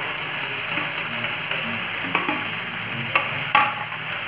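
Chopped tomatoes, onion and garlic sizzling in hot oil in a frying pan as they are stirred, with a few sharp taps on the pan. The loudest taps come about three and three and a half seconds in.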